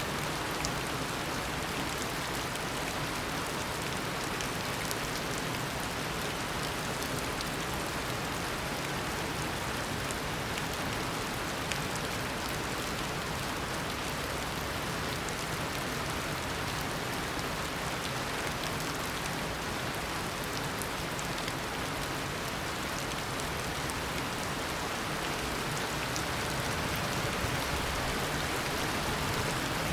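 Heavy tropical rain falling steadily, a dense even hiss with many individual drops pattering on surfaces; it swells slightly near the end.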